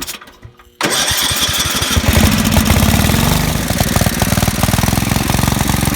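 Small garden tractor engine being cranked on its starter just under a second in. It catches about two seconds in and keeps running unevenly, not running well.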